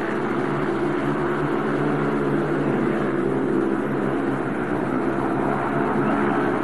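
Speedway motorcycle's 500 cc single-cylinder methanol engine running at racing speed around the track, a steady drone.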